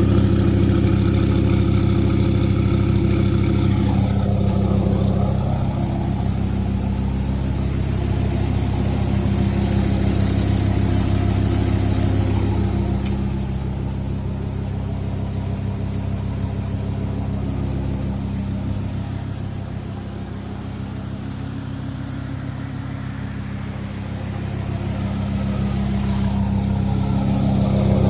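2001 Dodge Ram's 8.0-litre V10 idling steadily on a cold start through a straight-piped 3-inch exhaust with an Aero Turbine muffler, still warming up. It grows quieter about two-thirds of the way through and comes back up near the end.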